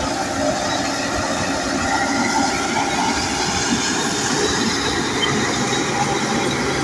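Bulldozer working, its diesel engine running steadily along with the sound of its steel tracks.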